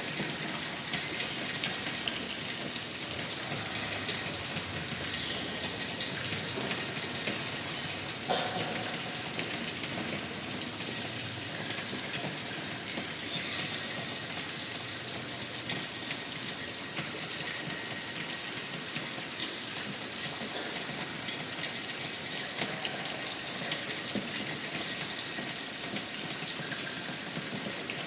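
Steady rain falling, an even hiss dense with small drop ticks.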